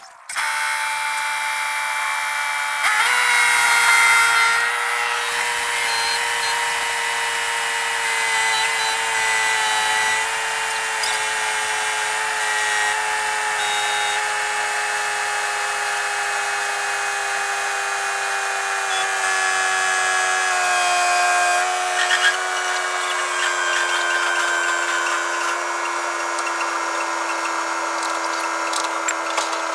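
An electric power tool, like a drill, running continuously. Its whine starts abruptly and sinks slowly and steadily in pitch.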